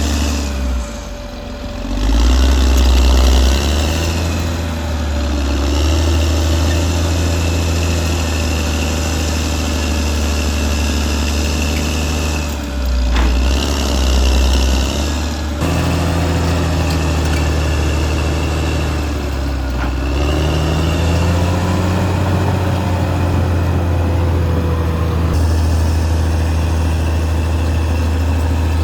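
Caterpillar D6R XL bulldozer's diesel engine running steadily, its pitch and loudness dropping and picking up again a few times (about a second in, near the middle, and once more later) as the load on it changes.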